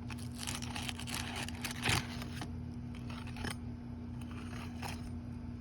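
Flat end of a roof snake pry tool working under asphalt shingles to break their sealant strips: irregular scrapes and small clicks, the loudest about two seconds in.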